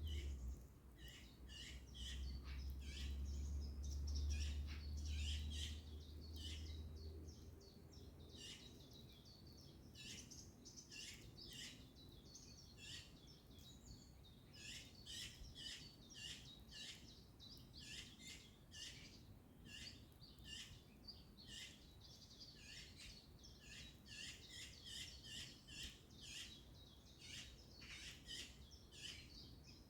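Wild birds chirping and singing in many short, overlapping calls. A low rumble sits under them for the first seven seconds or so, then stops.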